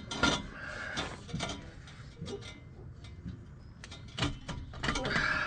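Hand wrench working a nut on an exhaust clamp: irregular metal clicks and scraping, with a quick cluster of strikes near the end. The nut turns stiffly because weld spatter is on the threads.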